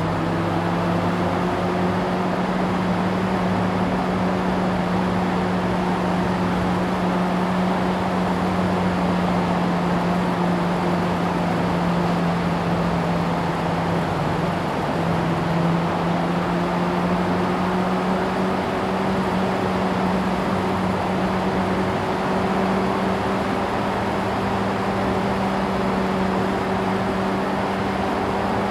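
Yamaha YZF-R6 inline-four engine cruising at steady revs, with wind and road noise. The engine note breaks briefly about halfway through, then settles slightly lower and slowly climbs again.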